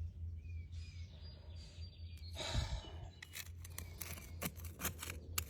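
Soil and debris being scraped and crunched by hand while digging out the stuck possum, with one louder scrape about two and a half seconds in and then a run of small crackling clicks, over a steady low hum.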